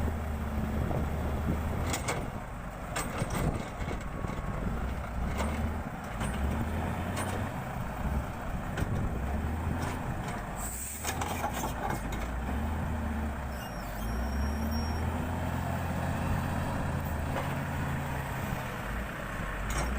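Heavy truck or machinery engine running, its pitch rising and falling in steps, with scattered sharp knocks and a brief hiss about eleven seconds in.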